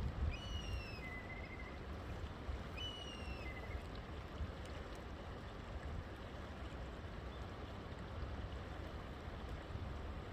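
River water flowing steadily, with a low rumble underneath. A bird calls twice in the first four seconds, each call a slightly falling whistle ending in a short, lower note.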